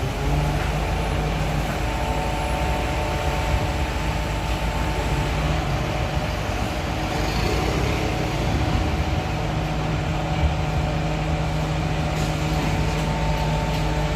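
2025 Isuzu FVR garbage truck running steadily, a constant mechanical hum with several steady tones.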